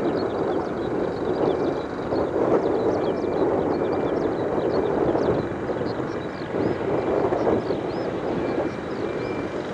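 Steady roar of a distant airliner's engines, rising and falling in strength, with faint high chirps over it.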